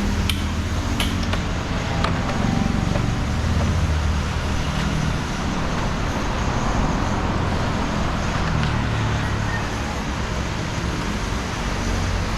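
Road traffic: motor vehicle engines running and passing, a steady rumble whose pitch shifts as vehicles come and go, with a few sharp clicks in the first second or so.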